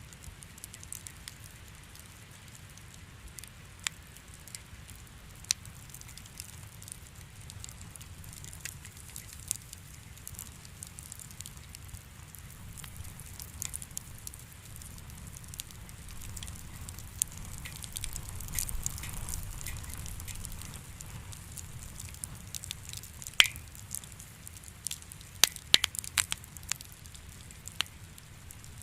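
Wood fire crackling in a fireplace: a low steady rumble of flame with scattered sharp pops. A burst of louder pops comes about two-thirds of the way through.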